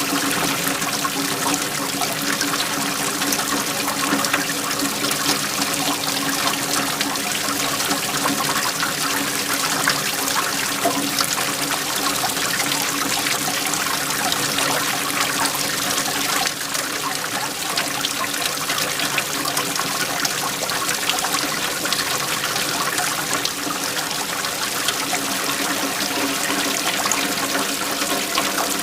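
Waterfall: a steady rush and splash of falling water.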